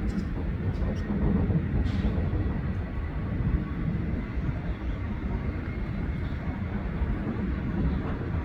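Distant jet airliner engines: a steady low rumble with a faint high whine over it.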